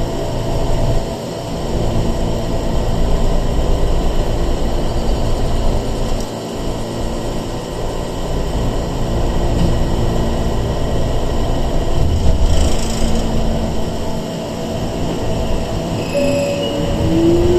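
Sangi Railway 101-series electric train (ex-Seibu 401 series) running, heard from inside the car: a steady rumble of wheels and running gear, with a whine rising in pitch near the end.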